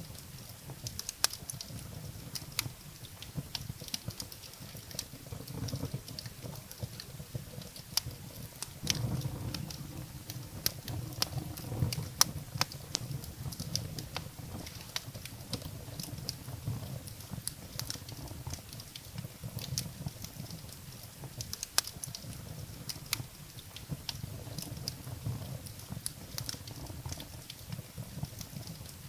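Firewood burning in a fireplace, crackling with frequent sharp pops over a low, steady rumble of flames that swells for a few seconds about nine seconds in.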